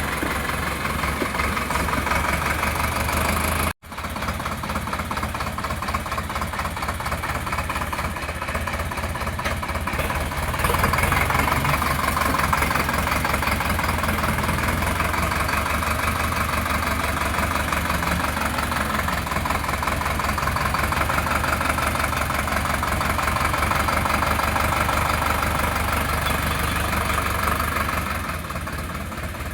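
Sonalika DI 750 tractor's diesel engine running steadily with a knocking diesel clatter. The sound drops out for an instant a little under four seconds in and comes back, and grows louder about ten seconds in.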